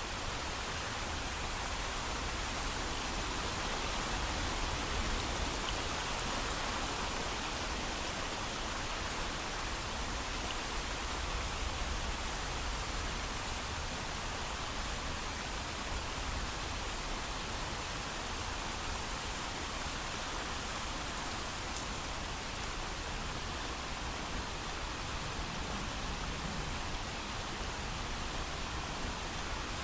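Steady heavy rain, with no thunder: an even, constant hiss of rainfall.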